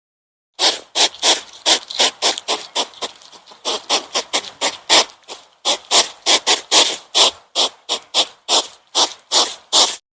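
An animal making rapid, raspy, hissing calls, repeated about three times a second, that stop abruptly near the end.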